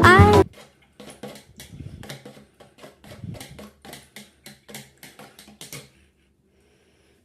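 A sung pop song cuts off about half a second in. It is followed by a run of faint, light taps, roughly two to three a second, which stop about six seconds in.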